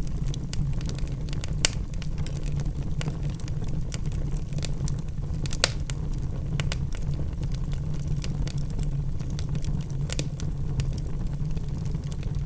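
Wood logs burning in a fireplace: a steady low rumble of the flames with irregular crackles and pops from the burning wood, a few sharper pops standing out.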